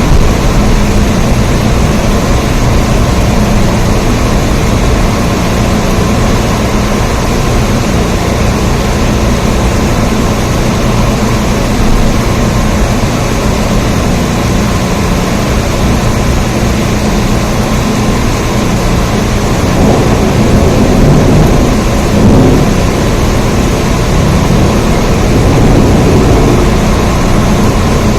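Steady heavy rain, a dense even hiss with a strong low rumble underneath that swells about two-thirds of the way through.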